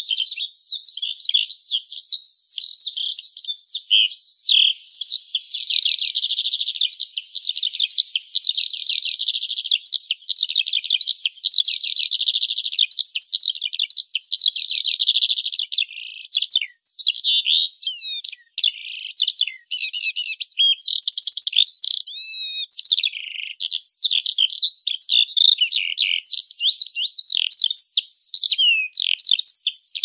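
Bird song: a dense, continuous run of quick high chirps, rapid trills and whistles, with a few short breaks about halfway through.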